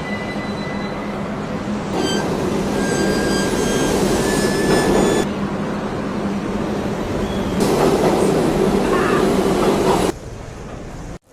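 Subway train running, a steady rumble and hum with high thin wheel squeals in places, broken by sudden cuts between clips about every two to three seconds.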